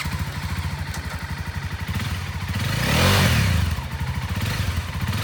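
Honda CBR300R's single-cylinder engine idling with a quick, steady beat, then revved once about halfway through, the pitch rising and falling back to idle.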